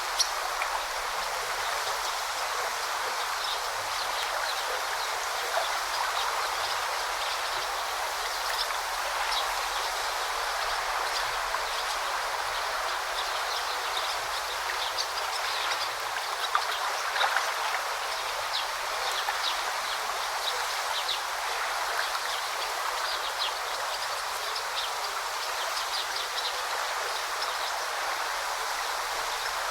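A forest stream or river flowing steadily, with short high chirps from small birds scattered throughout.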